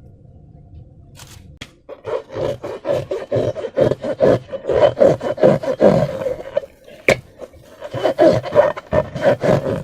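Slime being squeezed and kneaded: a rapid, irregular run of crackling squishes starting about two seconds in, with one sharp click about seven seconds in.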